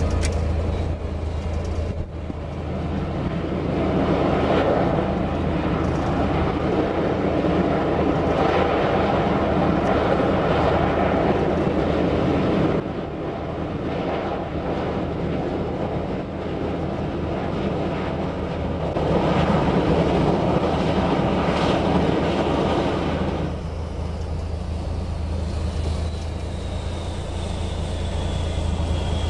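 Steady mechanical rumble of a large vehicle with a constant low hum. It grows louder for several seconds twice and drops abruptly in between, and a faint, slowly falling whine enters near the end.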